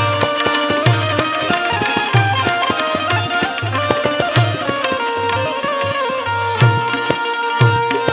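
Instrumental interlude of a Gujarati wedding song (lagngeet): tabla keeping a regular beat with deep bass strokes, under a melody played on an Indian banjo (bulbul tarang).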